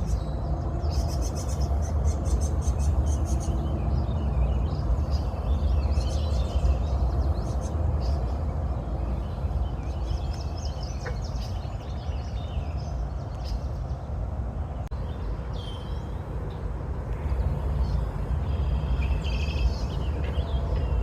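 Several songbirds singing and chirping, with rapid trills in the first few seconds and again near the end, over a steady low rumble.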